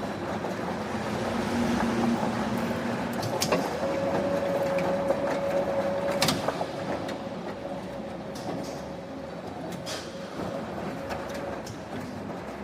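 Machinery running in a bearing forging factory, a steady mechanical din with a few sharp metallic knocks. A steady hum comes in about three and a half seconds in and ends a little after six seconds with the loudest knock.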